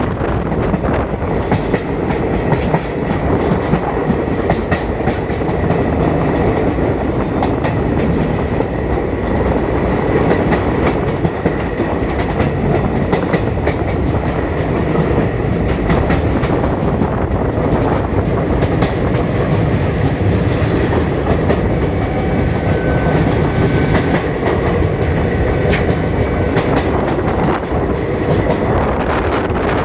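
Passenger train running steadily, a continuous rumble with the wheels clicking over the rail joints.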